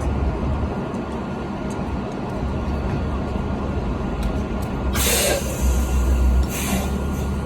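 Transit bus engine running with a steady low drone. Two short hisses of compressed air from the bus's air system come about five and about six and a half seconds in.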